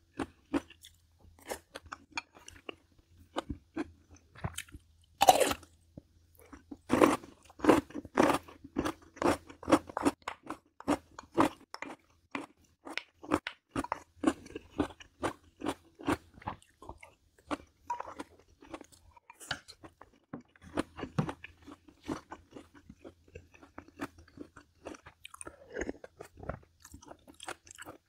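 Close-up chewing of crunchy food: a rapid run of crisp crunches, several a second, with a brief pause about halfway through.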